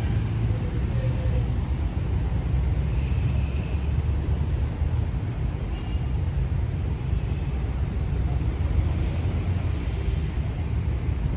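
Steady low rumble of city vehicle traffic with an even hiss over it.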